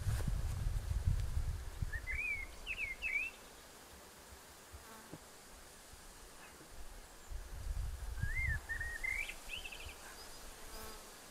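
A small bird singing two short bursts of quick chirping phrases, about two seconds in and again about eight seconds in, over a low gusty rumble that comes and goes.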